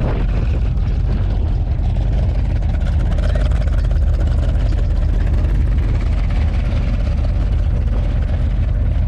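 A car engine running steadily at low speed with a deep low rumble, as a classic car rolls in.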